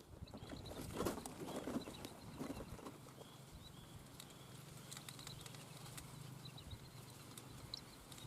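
Faint, short, high whistling calls of whistling ducks repeating, with a stretch of flapping and rustling about a second in.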